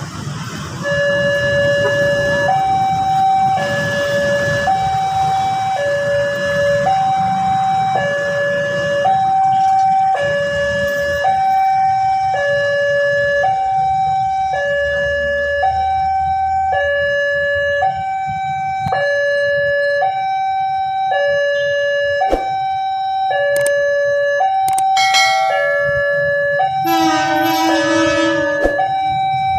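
Railway level-crossing warning alarm sounding as the crossing closes: an electronic two-tone signal alternating between a lower and a higher pitch about once a second, starting about a second in. Road traffic rumbles underneath, and a horn sounds briefly near the end.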